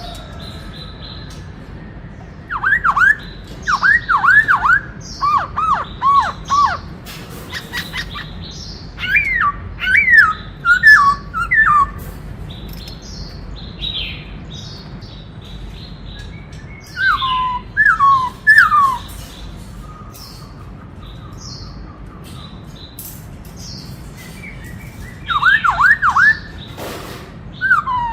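Black-throated laughingthrush (khướu bạc má) singing: four loud bursts of quick, down-slurred whistles in runs of three to five notes, with pauses between, over faint high chirps.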